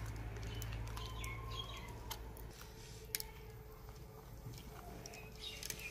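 Faint birds chirping in short calls scattered throughout, over a steady low hum, with a few sharp clicks; the loudest click comes about three seconds in.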